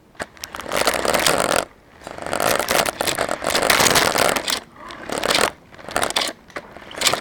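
RC car driving in bursts of throttle, its motor and wheels rattling and scraping, heard close up from a camera mounted on the car. There is a long burst about a second and a half in, another from two to four and a half seconds, then three shorter ones.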